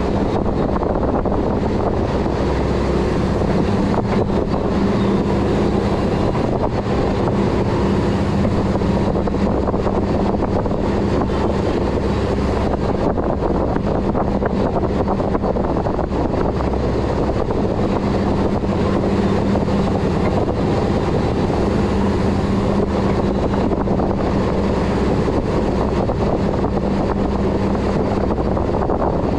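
Boat engine running steadily under way, a constant low drone with a hum, mixed with wind buffeting the microphone.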